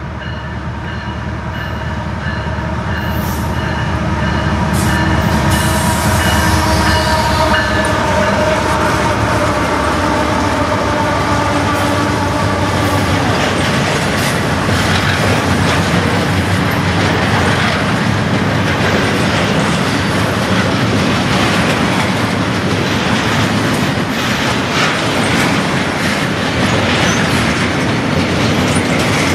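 CSX intermodal freight train passing close by. It builds up over the first few seconds as the lead diesel locomotives approach with a set of steady tones, which dip slightly in pitch as they go by about eight seconds in. Then the double-stack container cars roll past with a continuous steel-wheel rumble on the rails.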